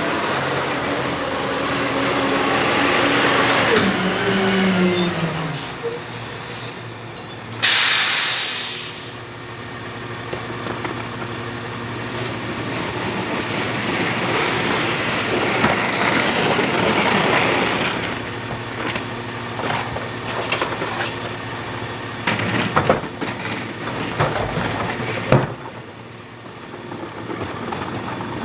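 A Battle Motors Raider rear-load garbage truck slows with its engine note falling, then lets off a loud air brake hiss about eight seconds in as it stops. Its engine runs on, with scattered knocks and clanks later on.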